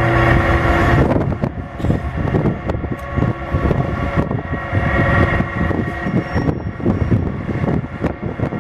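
A loud, steady droning hum made of several held tones, of unidentified source: the 'strange sound in the sky' that seems to come from all directions at once. Gusts of wind buffet the microphone over it.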